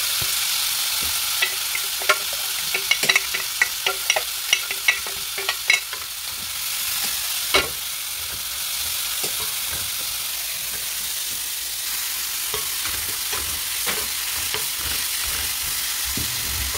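Bamboo shoots and pork sizzling as they are stir-fried in a skillet, with utensils knocking and scraping against the pan. A quick run of knocks comes in the first several seconds, with one louder knock a little before the middle.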